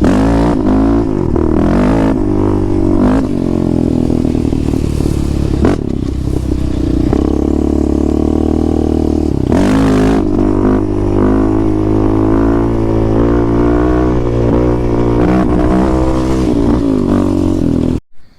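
ATV engines running and revving, their pitch rising and falling as the quads ride; the sound cuts off abruptly near the end.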